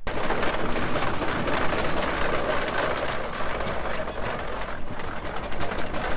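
Rumely steam traction engine running: a dense, steady mechanical noise with a fast, even clatter, starting suddenly.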